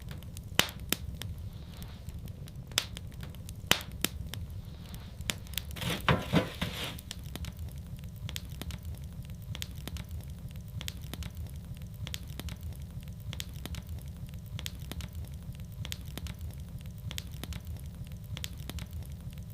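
Wood fire burning in a fireplace: a steady low rumble with frequent sharp crackles and pops, and a quick run of pops about six seconds in.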